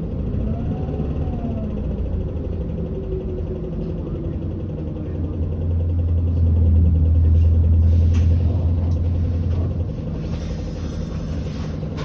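Interior sound of a Hino Blue Ribbon city bus with its diesel engine running low and steady as it pulls into its terminal stop. Short bursts of air hiss come about eight seconds in and again near the end, typical of the air brakes and doors.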